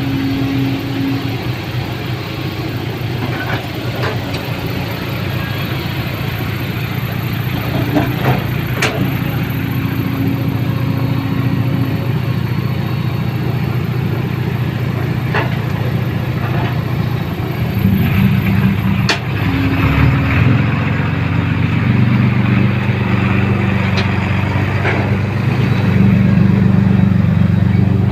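Motor vehicle engine running steadily, its note shifting about two-thirds of the way through, with a few sharp clicks over it.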